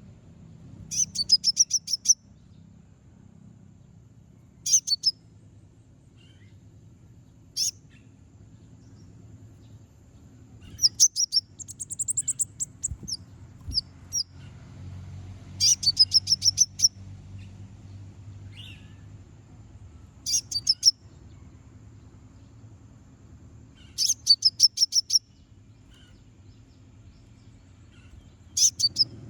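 A kolibri ninja (konin) sunbird giving sharp, rapid chattering trills in short high-pitched bursts, about nine of them a few seconds apart. It is the challenge call used to provoke rival konin into singing.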